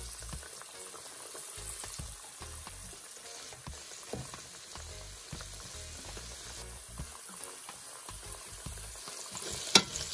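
Flour-dusted ribs shallow-frying in a pan of oil: a steady sizzle with small crackles, and one sharp knock near the end.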